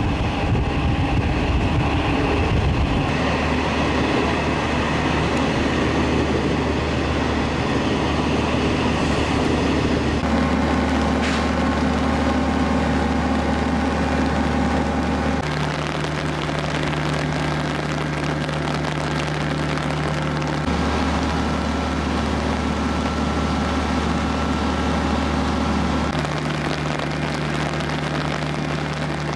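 Diesel passenger train standing in a station with its engines idling: a steady low hum. The first few seconds are running noise from on board a moving train, and the sound shifts abruptly a few times at cuts.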